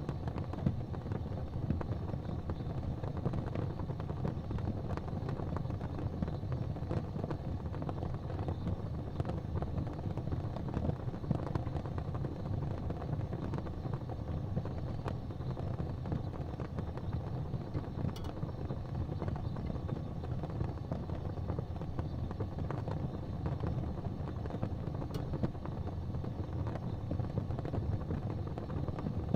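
Fireplace fire burning with a steady low rumble and small crackles throughout, with a couple of sharper pops past the middle.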